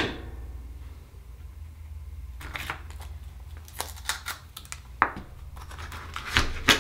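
A sharp click at the start, then a run of small clicks and scrapes from about halfway on, from an oyster shell and small tools being handled, over a steady low hum.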